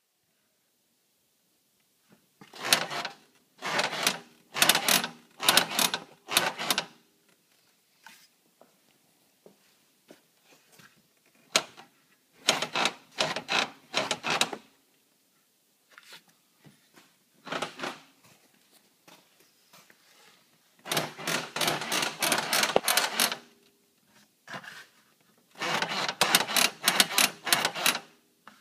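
Creaking from a new Can-Am 800R XMR ATV, coming in about five groups of rapid crackly creaks a few seconds apart.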